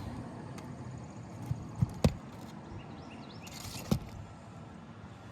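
A flat bar working a roofing nail out from under a shingle: a few sharp metallic knocks and clicks, the loudest about two seconds in and another near the end, over a steady background hiss.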